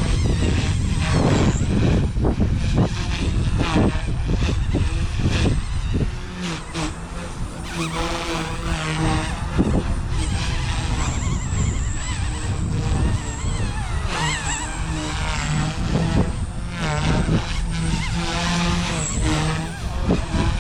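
Blade 150 S micro electric RC helicopter in flight: a high motor whine and rotor buzz whose pitch wavers and shifts as it flips and manoeuvres, over a low rumble of wind on the microphone.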